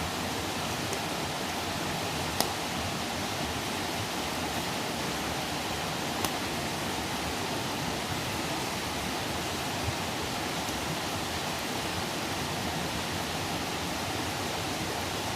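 Wood campfire burning: a steady rushing hiss of flames, broken by three sharp crackling pops, the loudest about two and a half seconds in.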